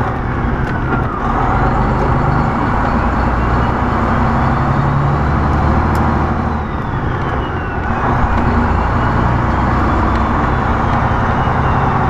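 Diesel semi-truck engine running under way, with steady road noise inside the cab. A faint high whine climbs slowly for several seconds, then falls away. The driver says the truck's turbocharger is barely working.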